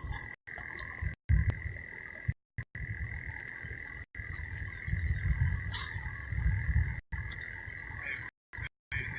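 A steady, continuous chorus of calling frogs, with a low rumble coming and going underneath. The audio cuts out completely a few times for a fraction of a second.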